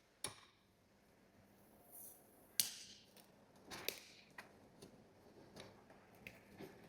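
Scattered faint clicks and light taps of hard objects being handled, with a sharper click a little over two and a half seconds in, during a screen-protector force test.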